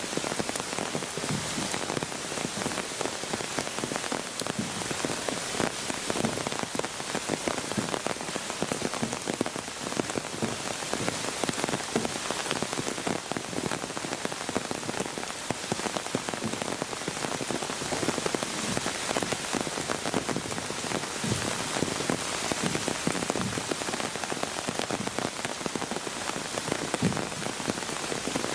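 Steady rain falling on wet rock and muddy ground, a dense even hiss full of small drop ticks.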